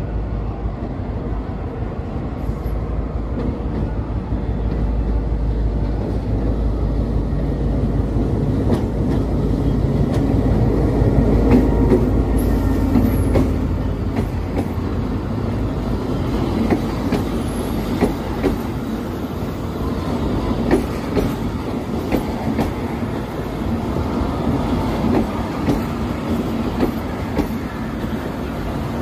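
Passenger train pulling in and rolling past. The low rumble grows louder to a peak about halfway through, then the coaches pass with a steady clickety-clack of wheels over the rail joints and a couple of brief high wheel squeals.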